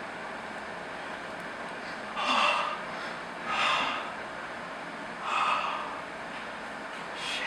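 A man's sharp, noisy breaths, four of them about one and a half seconds apart: cold-shock breathing in freezing ice water.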